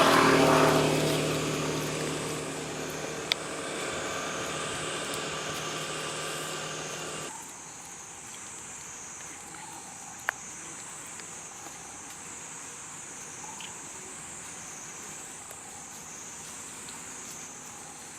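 A motor vehicle's engine passing, loudest at the start and fading away until it cuts off suddenly about seven seconds in. A steady high-pitched buzz runs underneath, with a couple of sharp clicks.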